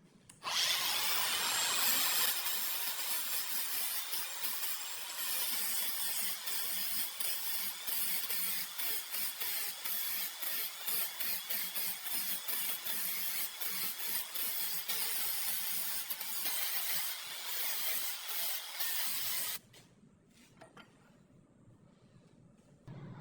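Steady hissing, scraping tool noise of restoration work, starting about half a second in, fluttering with many brief dips, and cutting off suddenly near the end.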